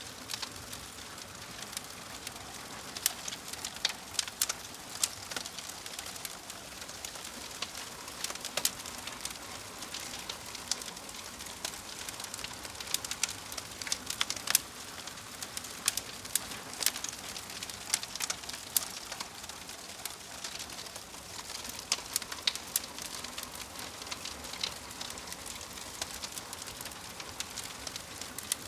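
Wood fire burning in a fireplace: logs crackling and popping in frequent, irregular sharp snaps over a steady soft hiss.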